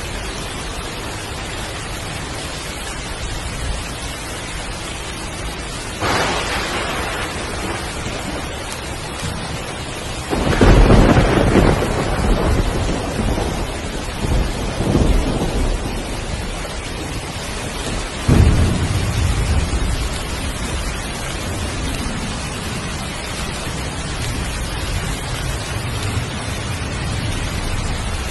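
Heavy, steady rain with thunder: a crack about six seconds in, then two loud rolling peals starting around ten and eighteen seconds in, each rumbling away over several seconds.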